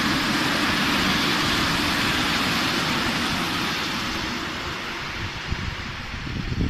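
Loaded open coal wagons of a freight train rolling past on the rails, a steady rumble and hiss of wheels that fades as the last wagon goes by about halfway through. Irregular gusts of wind buffet the microphone near the end.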